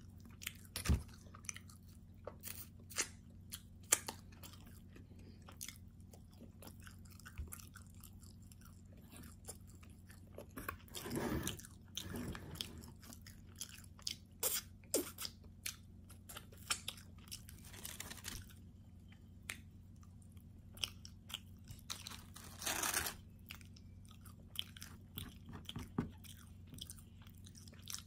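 Close-miked chewing and biting of a meat lover calzone: irregular wet smacks and crunches, with two longer bouts of chewing, one near the middle and one later on. A low steady hum lies underneath.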